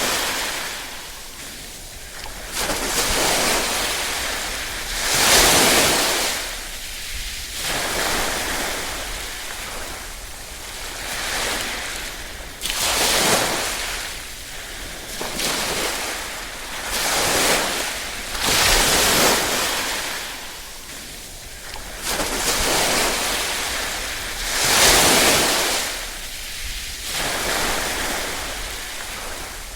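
Small waves lapping on a shore, each swell of wash rising and falling every few seconds.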